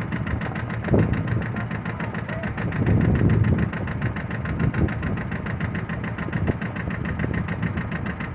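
John Deere 650 compact tractor's three-cylinder diesel engine running steadily at low speed as it is driven. A few louder knocks and bumps come about one and three seconds in.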